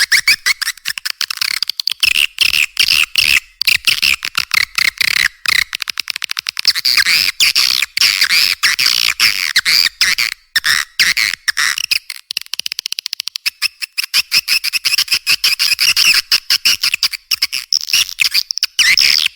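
Recorded swiftlet calls, the lure sound played to draw swiftlets into a nesting house: dense, rapid chirping twitters and clicks from many birds overlapping, in fast stuttering runs with brief gaps.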